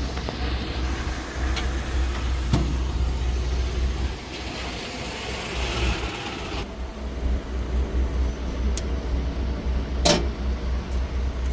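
Heavy diesel truck engine idling with a steady low rumble, with a couple of sharp clicks or knocks. About two-thirds of the way through, a higher hiss drops out suddenly.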